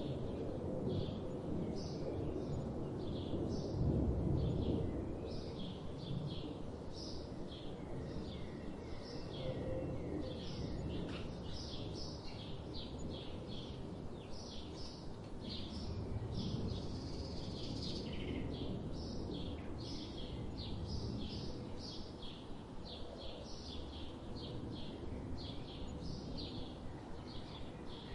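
Forest birds calling: a steady run of short high chirps, about two a second, with a brief series of lower notes about a third of the way in. A low rumble underneath swells twice.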